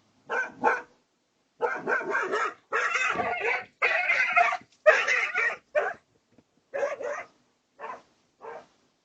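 Dog barking in quick runs of barks, tailing off into a few single, fainter barks near the end.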